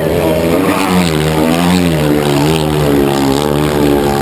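Motorcycle engine held at high revs for several seconds, its pitch wavering slightly up and down as the throttle is worked.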